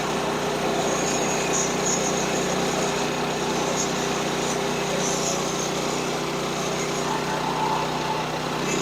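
Small gasoline engine of a portable band sawmill running steadily at an even speed.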